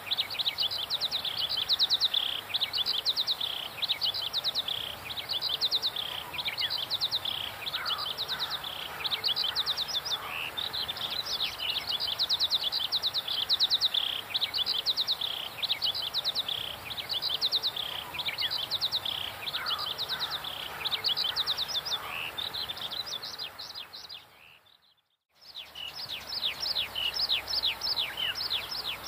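Birds chirping: a high, rapid trilling phrase repeated over and over, with a few fainter lower calls. The sound drops out for about a second near the end.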